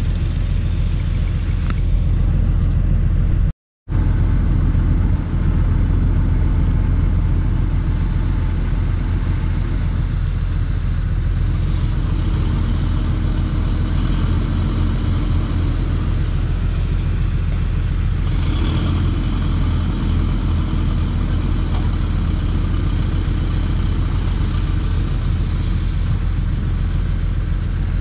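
Heavy diesel earthmoving machinery running with a steady low drone. The sound drops out for a split second about four seconds in.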